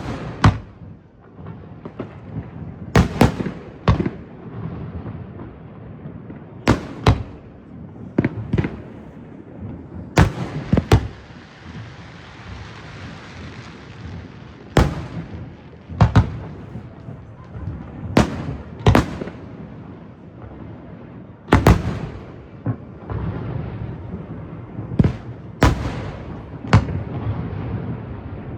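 Fireworks going off: sharp bangs every second or two, several in quick pairs, over a low rumble, with a stretch of hissing crackle about halfway through.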